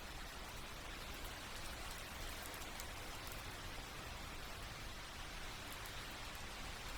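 Steady rain, falling evenly, with faint scattered drop ticks.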